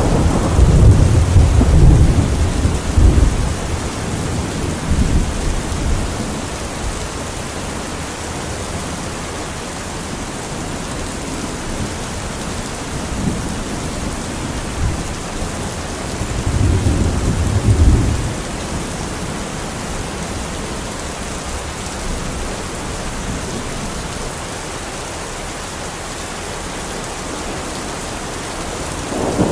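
Heavy rain falling steadily on a metal roof, with rolling thunder rumbling loudest over the first few seconds and again briefly about sixteen seconds in.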